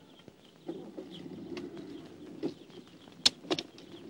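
Car engine starting and running steadily, from about two-thirds of a second in, with a few sharp clicks over it; the loudest click comes about three seconds in.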